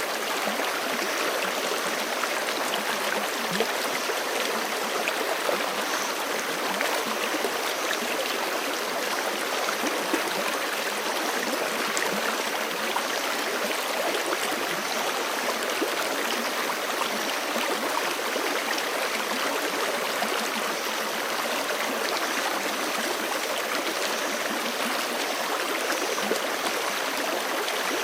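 Fast-flowing forest creek, a steady, unbroken rush of water.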